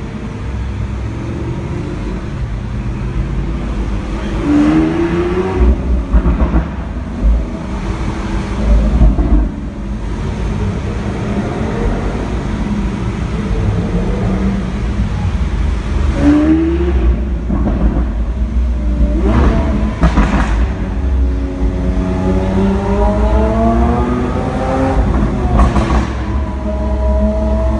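Lamborghini Aventador S's 6.5-litre V12 heard from inside the cabin, revving up repeatedly as the car accelerates through a road tunnel, with a long climbing sweep in pitch in the second half. A few short sharp sounds cut in between the revs.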